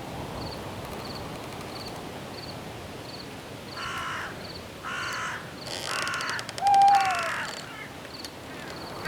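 Night forest ambience. A cricket chirps steadily, nearly twice a second, over a soft wind hiss. About four seconds in, a bird gives four harsh calls in a row, and a short falling whistled note, the loudest sound, comes in among the last of them.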